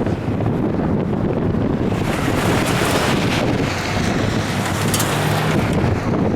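Strong wind buffeting the microphone in a steady low rumble, gusting harder with a brighter rush from about two seconds in until near the end.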